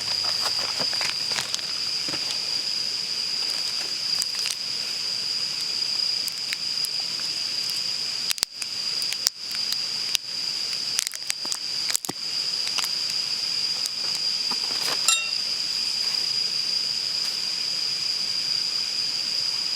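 Insects singing in the forest: a steady, high-pitched drone. Scattered small clicks and crackles sound over it, thickest in the middle.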